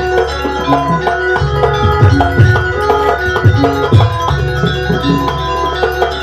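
Banyuwangi gamelan music playing: deep drum strokes a few times a second under many ringing metal percussion notes.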